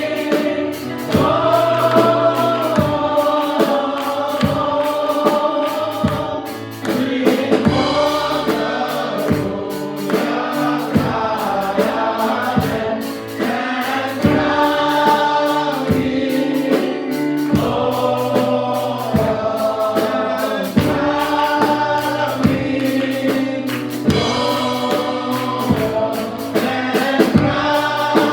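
Gospel choir singing a worship song to a band with a steady beat.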